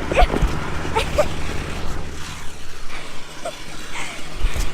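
Snowblower engine running steadily with a low hum as it throws snow; the hum drops away near the end.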